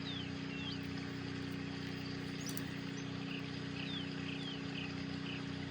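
Steady low mechanical hum with one constant pitch, with a few faint short high chirps falling in pitch near the start and again about four seconds in.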